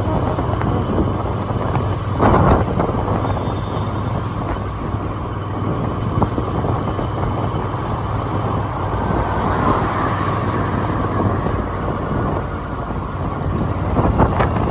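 Motorcycle engine running steadily at road speed, with wind rushing over the microphone and a brief louder rush about two seconds in.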